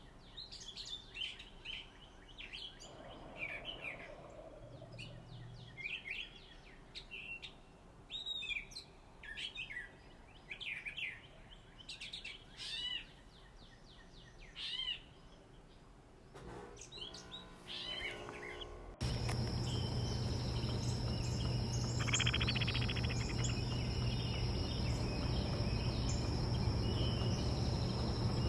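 Backyard songbirds chirping and calling in short, separate phrases, many of them sliding down in pitch. About two-thirds of the way through, the sound cuts abruptly to a louder steady hiss with a constant high insect drone and a low hum underneath.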